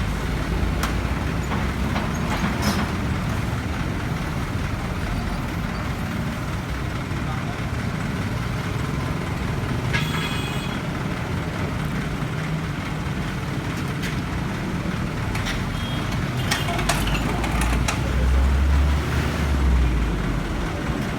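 Heavy machinery engine running steadily at roadworks, swelling louder for a couple of seconds near the end, with scattered knocks and clanks and people talking.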